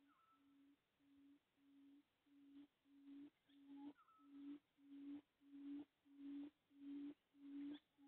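A bird's low hooting call: one steady-pitched hoot repeated about twice a second, growing louder. A higher short rising chirp from another bird sounds a few times.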